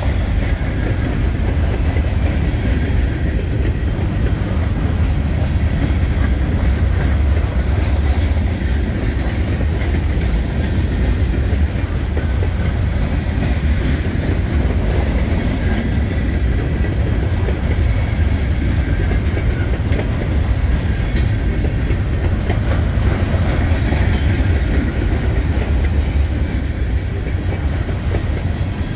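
Freight cars of a long gondola train rolling past at low speed: a steady heavy rumble with the clickety-clack of wheels over the rail joints.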